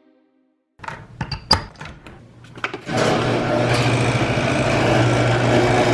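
A small engine running steadily from about halfway through, after a few scattered knocks and clicks.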